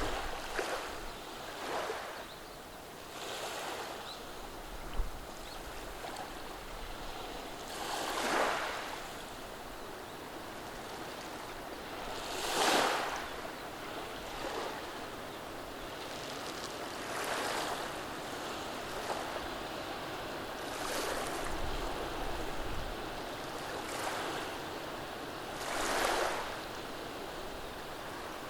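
Gentle waves washing over a beach of rounded pebbles, a steady wash with a soft surge every few seconds as each wave comes in and draws back over the stones.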